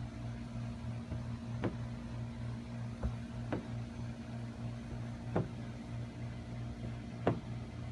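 A rubber squeegee worked over paint protection film on a soap solution, giving about five short, sharp squeaks spread over a few seconds. Underneath runs a steady low hum.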